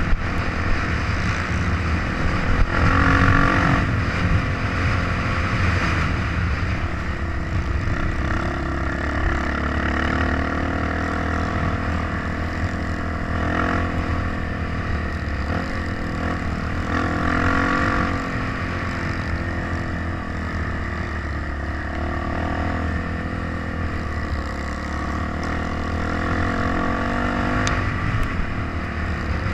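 Dirt-bike engine running under way on a trail, its revs rising and falling repeatedly as the rider works the throttle.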